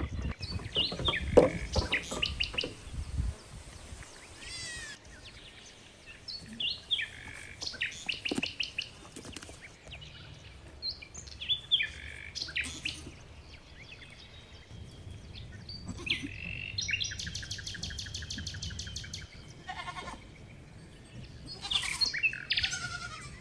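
Animal calls: short, high-pitched bleating or chirping cries in bouts every few seconds, one of them longer near the middle.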